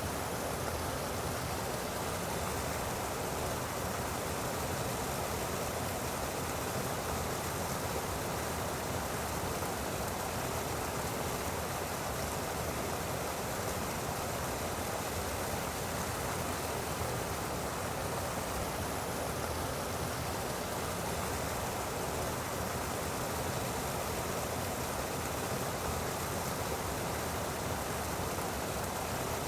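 Water rushing steadily out of an artesian well overflowing after days of heavy rain.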